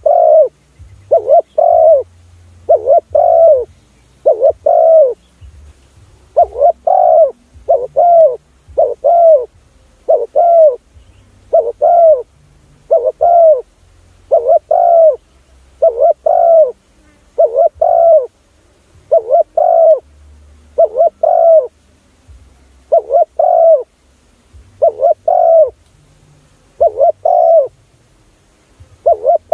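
Spotted dove cooing: a steady series of short paired coos, a new pair roughly every one and a half to two seconds. It is a call recording used as a decoy to lure wild spotted doves.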